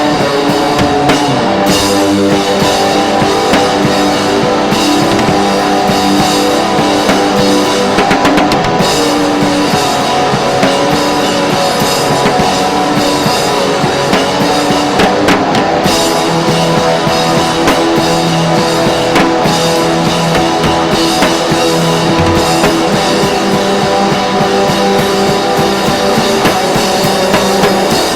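Rock music played on drum kit and electric guitar, loud and steady, with no singing.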